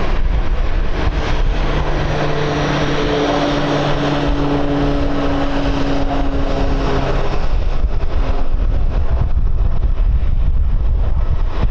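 Airliner engines passing close by, a steady drone with a hum of held tones that fades away about seven seconds in, while wind buffets the microphone with a low rumble throughout.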